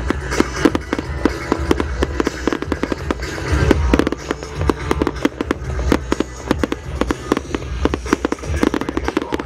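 Fireworks going off in quick succession: a dense run of bangs and crackles.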